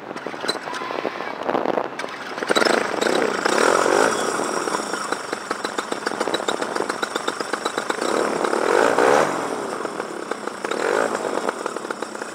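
Paramotor's two-stroke engine starting without priming and running, with quick, even firing pulses. The throttle is opened up twice, about three seconds in and again around nine seconds, before it drops back. The clean restart shows the engine is still warm enough to fire without priming.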